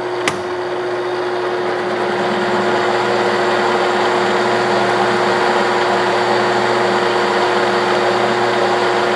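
1967–68 Clausing Colchester 1340 metal lathe running under power with a steady hum while the tool takes a cut on a steel bar. The cutting noise builds over the first couple of seconds and then holds steady. A single sharp click sounds just after the start.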